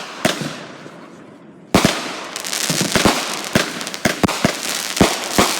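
Aerial consumer fireworks going off: a sharp bang just after the start, then a sudden loud burst about 1.7 s in, followed by dense crackling with many sharp pops.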